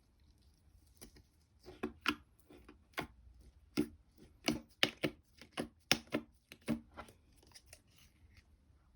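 Slime being pressed and pulled by hand, making a run of sharp, irregular pops and clicks from about a second in, thinning out near the end.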